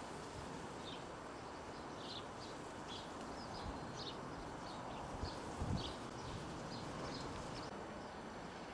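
A bird chirping over and over in short high notes, against a steady faint outdoor hiss, with a couple of low thumps a little past the middle.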